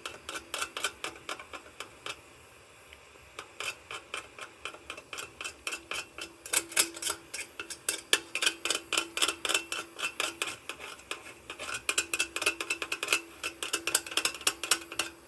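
Rapid light metallic clicking and tapping, several strikes a second, from a metal tool working on a lantern's tin fount to clear solder. The clicking pauses for a second or two near the start, then keeps on.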